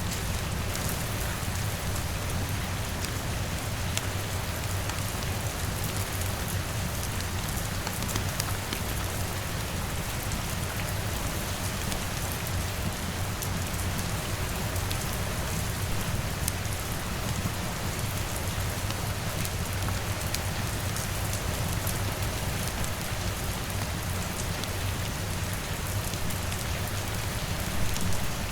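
Steady rain on a window, layered with a crackling wood fire that gives scattered small pops.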